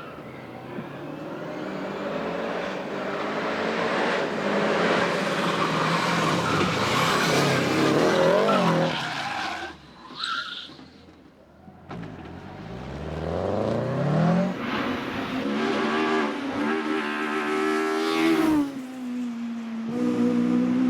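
Hillclimb race car engines at full throttle, revving up and down through gear changes. The engine noise drops away sharply about halfway, then climbs again as a car accelerates hard, with another sudden change in engine pitch near the end.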